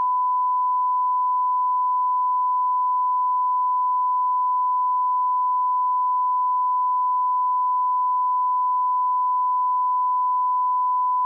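A steady, unbroken 1 kHz sine-wave line-up tone at −18 dB reference level, used for audio channel and level testing.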